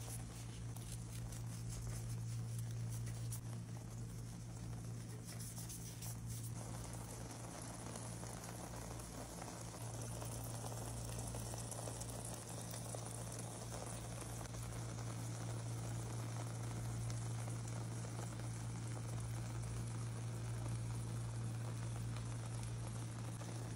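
Egg, potato and pepper omelette sizzling and bubbling gently in a nonstick frying pan as it cooks. The sizzle grows fuller about six seconds in, over a steady low hum.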